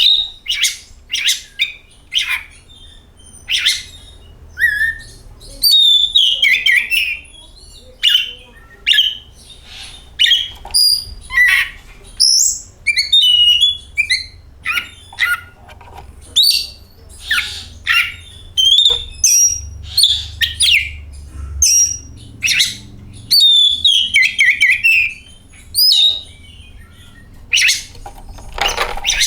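Oriental magpie-robin (kacer) singing: a fast, varied run of sharp whistles, chirps and sweeping notes with short pauses between phrases, the kind of song played to provoke a caged kacer into singing.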